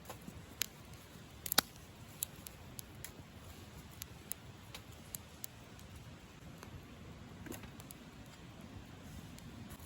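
Scattered small clicks and taps over a faint steady low hiss, the loudest a quick double click about one and a half seconds in.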